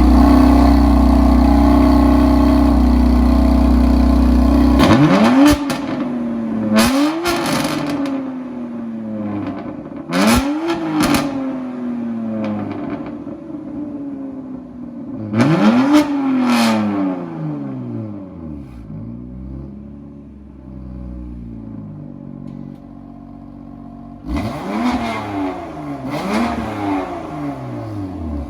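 BMW F80 M3 straight-six engine, heard through its exhaust with an equal-length mid pipe and working exhaust valves, being revved in repeated quick throttle blips. Each blip jumps up sharply in pitch and falls back more slowly. The blips come in clusters starting about five seconds in, with the engine idling between them. The first five seconds hold a louder, steady sound.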